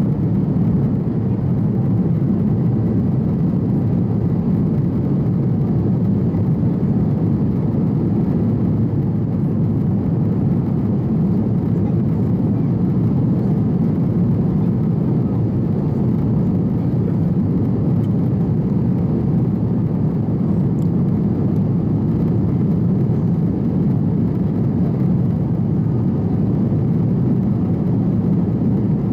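Steady low drone of an Airbus A330 airliner's cabin during the climb after takeoff: engine and airflow noise heard from inside the cabin, unchanging throughout.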